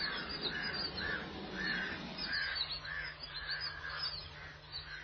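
Birds calling over and over: a run of short calls, about two a second, with thinner chirps above them.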